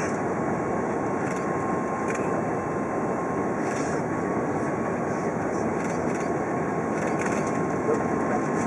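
Steady cabin noise inside an Airbus A380 airliner during landing: an even rush of airflow and engine noise, with a faint steady high whine running through it.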